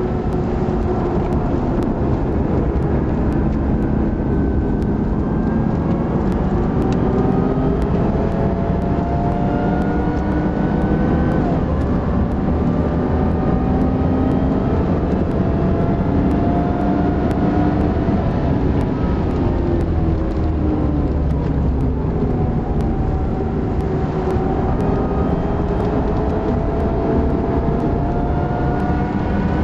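Supercharged Lexus IS350's 3.5-litre V6 being driven hard on track, heard from inside the cabin. The revs climb several times under acceleration and drop back at gear changes and braking, over a steady low rumble of road and tyre noise.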